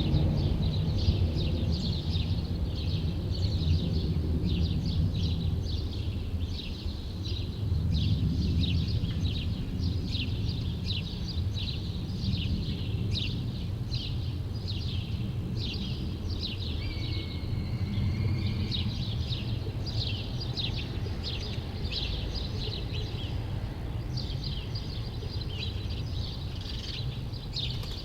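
Small birds chirping rapidly and continuously, several short high chirps a second, with one longer gliding note about two-thirds of the way through. A low, steady rumble of city traffic sits underneath, louder in the first few seconds.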